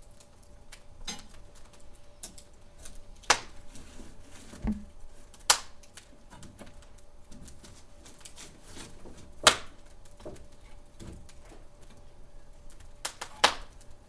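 Wood fire crackling, with irregular sharp pops, four of them standing out loudly, and one dull thump about a third of the way in.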